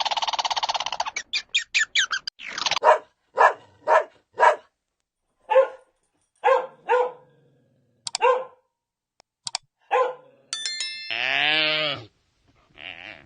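Dog barking: single short barks spaced irregularly, half a second to a second apart, after a dense run of rapid sound at the start. About eleven seconds in comes one longer pitched call whose pitch dips and rises.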